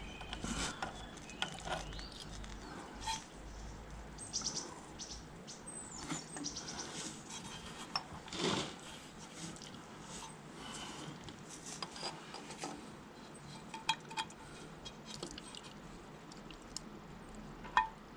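Scattered small clicks, light taps and scrapes of metal parts and a tool being handled while fitting a split pin into the tractor's brake linkage. There is a louder knock about eight and a half seconds in and a sharp click near the end.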